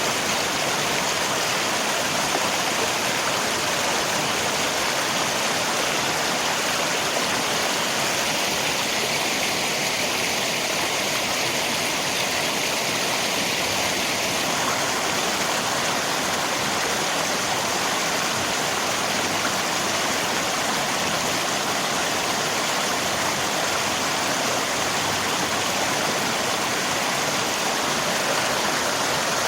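River water rushing steadily, mixed with falling rain: a constant, even wash of sound with no breaks.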